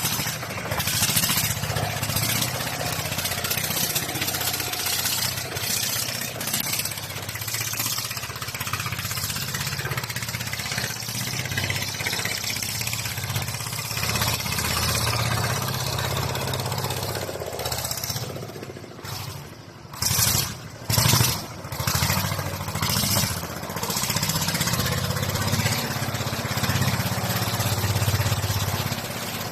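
Mini tractor engine running steadily under load, with a brief drop and a few short loud bursts about two-thirds of the way through.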